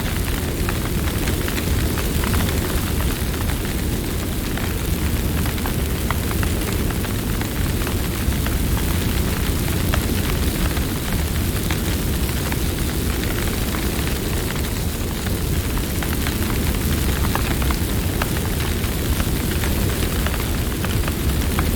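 Campfire burning: frequent small crackles and pops scattered over a steady low rumble.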